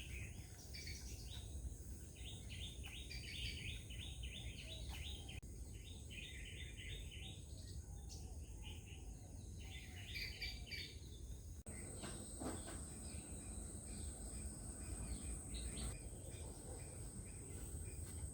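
Wetland ambience: small birds chirping in quick series with a steady high-pitched insect drone, like crickets, under a low rumble. The ambience changes abruptly about twelve seconds in; after that the insect drone is louder and the chirping mostly stops.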